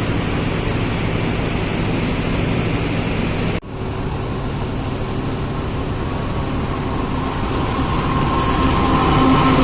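Diesel locomotive running steadily with a low engine hum. It breaks off for an instant about three and a half seconds in, then grows louder near the end.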